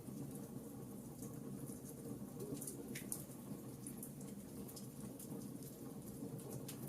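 Wood fire burning in a fireplace: a steady low rush of flame with scattered small, sharp crackles of the burning logs.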